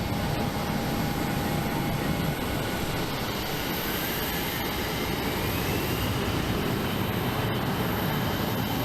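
Regional jet's engines spooling up for its takeoff roll: a steady jet roar with a whine that rises in pitch from about two seconds in and levels off near six seconds.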